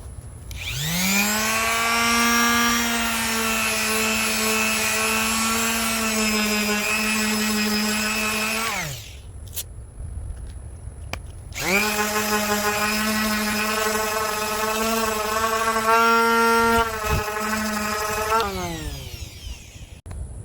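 Electric power sander with 80-grit paper, run twice for several seconds each time. Each run spins up to a steady whine and winds down. It is smoothing cured epoxy filler over a dent in a bicycle frame's top tube.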